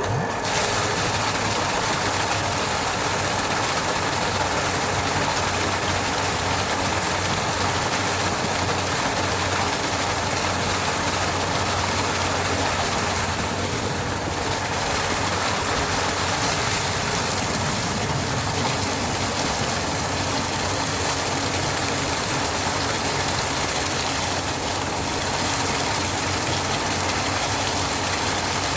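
A 750-watt, 3000 rpm electric motor driving a 3D-printed vortex-impeller water pump, running with a steady hum under the rush of pumped water. It comes on abruptly and holds an even level.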